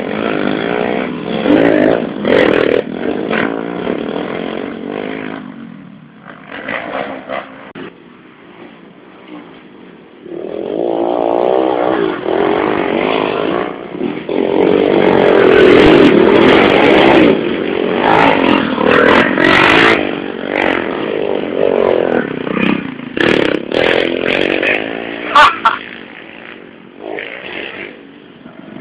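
110cc motorcycles racing past, their engines revving up and down as they go by. The engine sound dies down about six seconds in and swells again from about ten seconds, loudest around 15 to 20 seconds in, with a few sharp knocks near the end.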